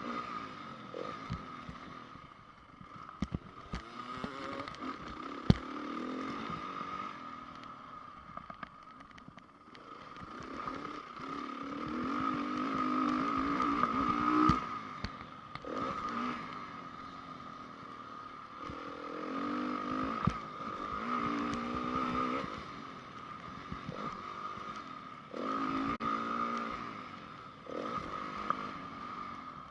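2010 Honda CRF450 single-cylinder four-stroke motocross bike being ridden, the engine surging and falling off again and again as the throttle opens and closes. Sharp knocks and clatter come through between the surges.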